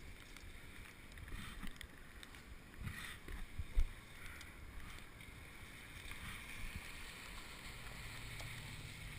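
Bicycle tyres rolling over wet, slushy pavement, with wind on the helmet-mounted camera's microphone. A sharp knock about 4 seconds in, and a low steady hum near the end.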